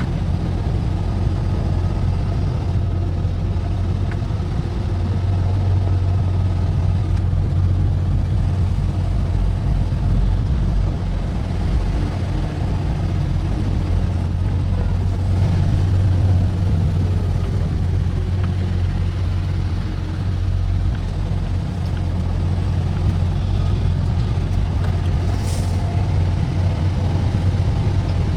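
Truck engine and road noise heard from inside the cab while driving: a steady low drone. There is a brief high hiss about 25 seconds in.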